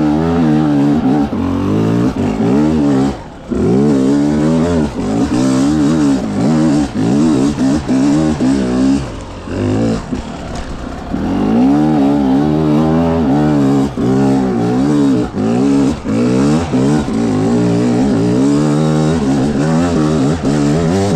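A 300cc two-stroke dirt bike engine revving up and down continually under hard throttle work, with short drops off the throttle about three seconds in and again around ten seconds.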